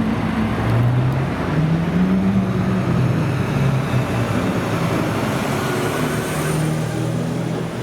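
Car engines running at low revs as cars move slowly past, the engine notes shifting up and down in pitch with no hard acceleration.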